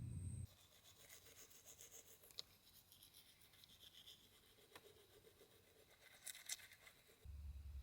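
Faint scratchy rubbing with a few small clicks, like objects being handled close to the microphone.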